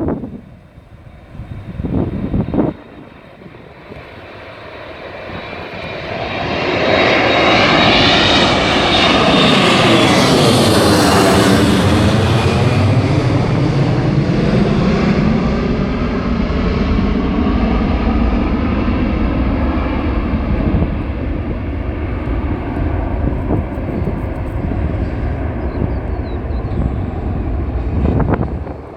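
Airliner taking off under full engine power. The engine noise builds, peaks about ten seconds in with a swooshing sweep in pitch as the aircraft passes, then settles into a low rumble as it climbs away.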